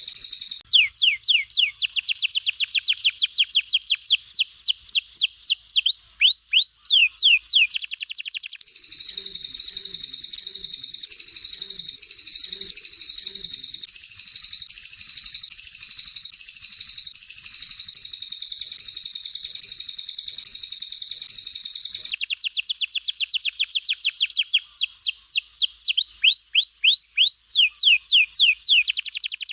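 Recorded songbird song, the canary and cililin 'tembakan' phrases of a masteran tutoring track. It opens with fast runs of sharp, descending whistled notes. About nine seconds in, a long, high, dense twittering song takes over. About 22 seconds in, the runs of descending notes come back.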